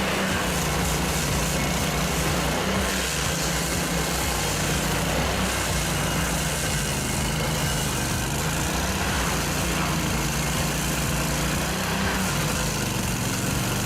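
Engine of a stump-removal machine running steadily at a constant speed.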